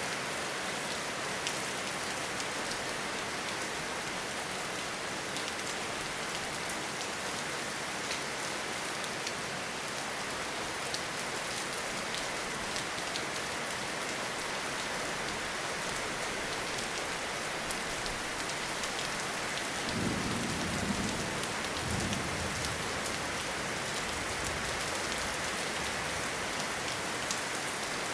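Steady rain falling in a forest, with scattered sharp drop ticks. About two-thirds of the way in, a low rumble of thunder swells twice and fades.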